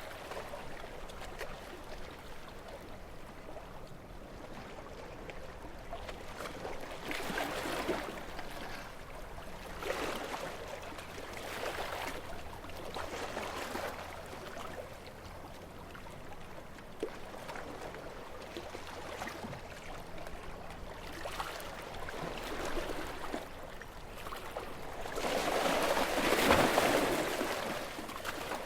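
Calm sea with small waves lapping and washing in, in soft repeated swells. One larger wave breaks and washes up near the end.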